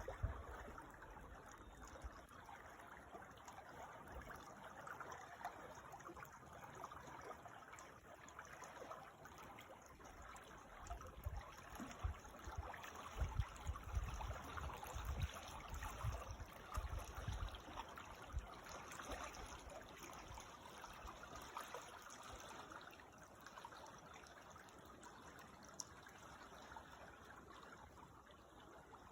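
A creek's water trickling and running steadily and faintly, with a few soft low rumbles near the middle.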